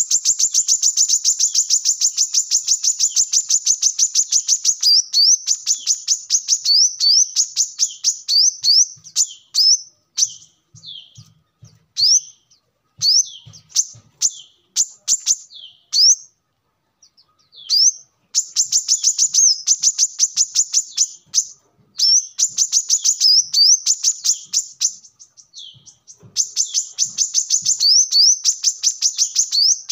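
Brown-throated sunbird (kolibri kelapa) singing: long runs of rapid, high, sharp chirps, several a second. The song breaks into scattered notes with a brief pause in the middle, then the dense runs start again.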